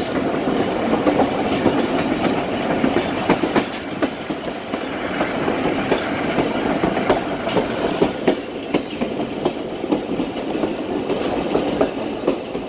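Pakistan Railways passenger coach running along the track at speed, heard from its open doorway. A steady rolling rumble of steel wheels on rail, with irregular clickety-clack at the rail joints.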